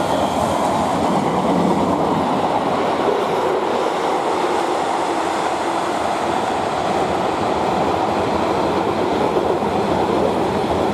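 Engineers' freight train of wagons passing at speed, making a steady rumble of wheels on the rails.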